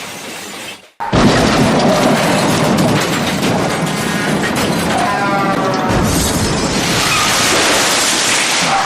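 Cartoon crash sound effects with music: after a brief drop-out, a sudden loud boom about a second in, then a continuing dense crashing rumble.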